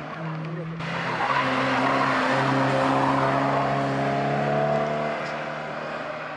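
Competition hatchback engines at full load on a hillclimb: one car's engine, then after an abrupt cut about a second in, a second car accelerating hard past, its engine note climbing steadily and then fading as it pulls away.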